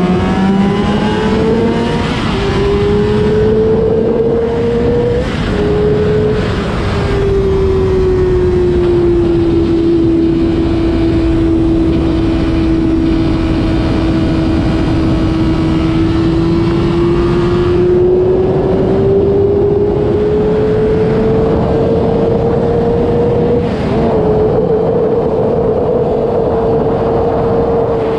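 Honda CBR600RR inline-four engine under way. It revs up and drops twice in quick gear changes in the first few seconds, then holds steady revs for about ten seconds, builds slowly, and dips briefly near the end. Steady wind rush runs underneath.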